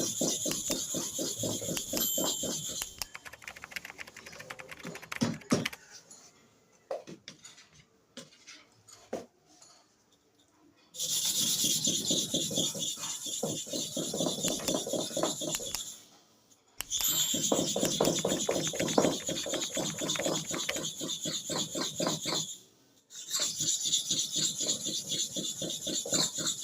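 Metal and stone scraping on a sharpening stone in rapid back-and-forth strokes, as a clipper blade is worked over the stone. The strokes come in runs of several seconds with short pauses between, and a stretch of scattered clicks and light scrapes comes after the first run.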